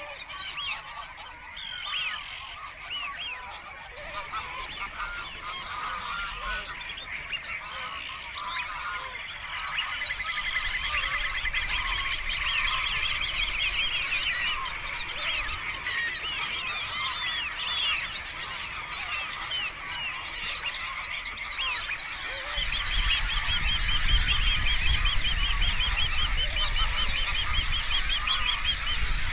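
A flock of geese calling, a dense chorus of many overlapping honks that grows fuller partway through. A low rumble joins about three-quarters of the way in.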